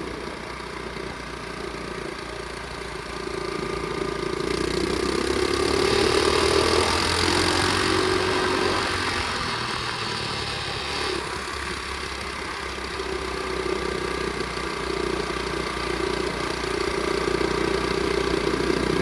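Flywing pit bike's small single-cylinder engine running while ridden. It rises in pitch and loudness a few seconds in, eases back about halfway through, then holds fairly steady.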